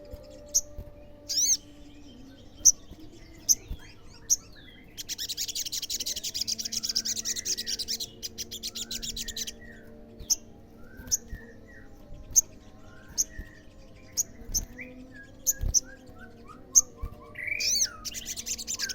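Olive-backed sunbird calling: sharp, high chips repeated every second or so, broken by a fast, buzzy trill lasting about four seconds mid-way and a shorter one near the end.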